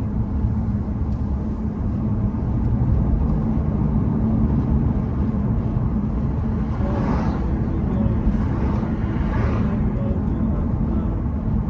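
Road vehicle noise: a steady low rumble of a car on the road, with two swells of hiss about seven and nine and a half seconds in.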